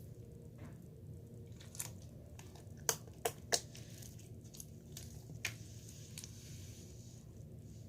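Small sharp clicks and pops, scattered through, with three louder ones in quick succession about three seconds in, over a low steady hum.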